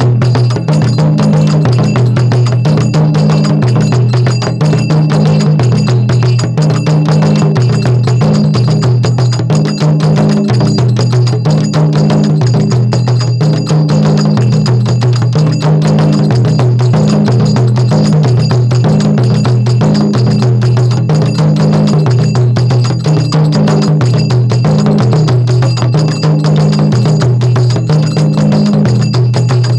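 Nagara drums beaten in a fast, continuous rhythm over sustained low chords that shift in pitch every second or two: an instrumental passage of a Rajasthani folk bhajan without singing.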